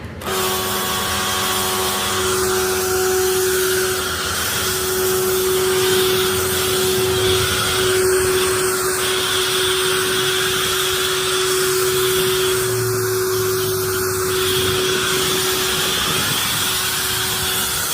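Pressure washer running: a steady motor hum under a loud, continuous hiss of spray, starting suddenly and then holding steady.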